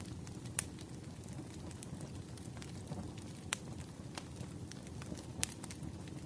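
Wood fire crackling: a steady low rumble with sharp pops every second or so, the loudest near 0.6 s, 3.5 s and 5.4 s.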